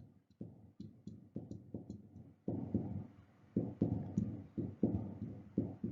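A run of soft, dull taps, about two or three a second, with a few faint clicks in between.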